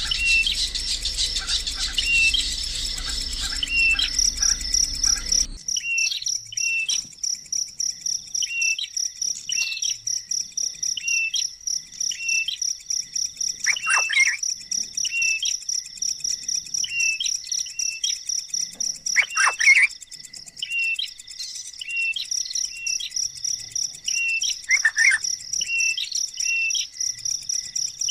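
Short bird chirps repeat about once a second over a steady high insect drone, with a few louder falling calls about 14, 19 and 25 seconds in.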